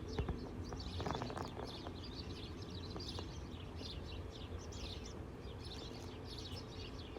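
Birds chirping outside: many quick, high chirps throughout, with a few faint clicks about a second in.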